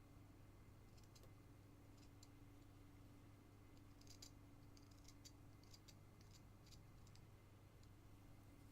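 Faint, scattered small clicks and scrapes of a carving knife paring basswood, most of them bunched from about four to seven seconds in, over a low steady hum.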